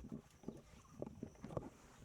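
Irregular low thumps and knocks, two or three a second, from a motorbike-mounted action camera jolting over the road as the bike rides downhill.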